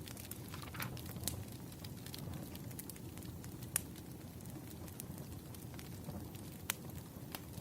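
Wood fire crackling: a steady low rumble of burning logs with scattered sharp snaps and pops.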